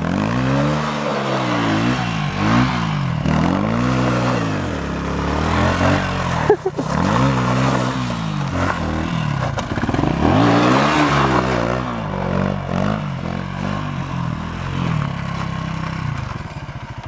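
Motocross bike engine revving up and dropping back again and again as it is ridden, with a sharp knock about six and a half seconds in, then running at a steadier, lower note near the end.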